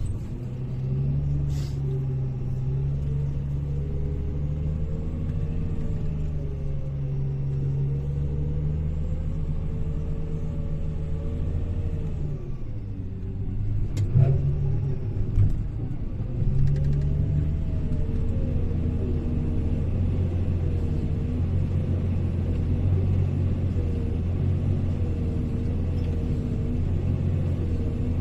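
Hyundai HL780-7A wheel loader's diesel engine running as it works, its pitch rising and falling with the load and dipping briefly about halfway through. A sharp knock comes just after the dip.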